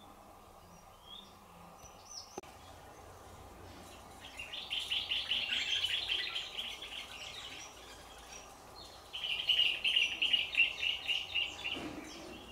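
A bird calling: two rapid chattering trills of quick high chirps, each about three seconds long, a couple of seconds apart.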